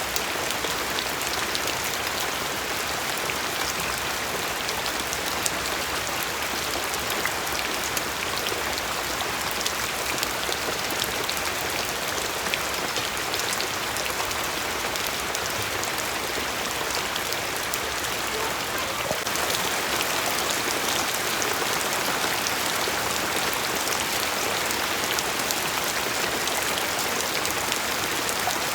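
Steady rain falling on a surface, a dense even patter with many small drop ticks, a little louder from about two-thirds of the way in.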